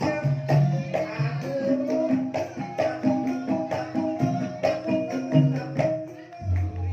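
Javanese gamelan ensemble playing a Banyumasan gending in ebeg style: rapid struck metallophone notes over drum strokes. A deep sustained low note comes in near the end.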